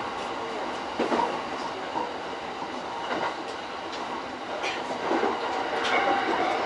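JR East E231-series commuter train running, heard from inside its lead car: a steady rumble of wheels on rail, with several sharp wheel clacks over rail joints.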